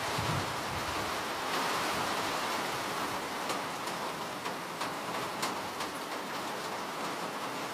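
Steady rainfall hiss with a few sharper single drops tapping now and then, mostly in the middle.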